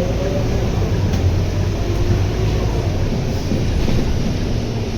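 Scania K230UB bus under way, heard from on board: the 9.3-litre Scania DC9 diesel and ZF Ecomat automatic gearbox give a steady drone along with running noise, and a faint whine fades out about half a second in.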